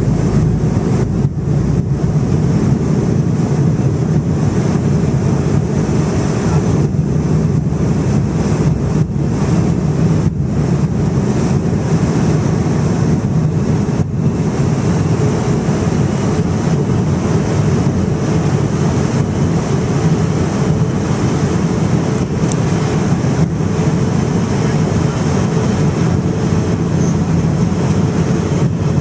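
Steady, loud noise inside a jet airliner's cabin, the engines and rushing air running evenly.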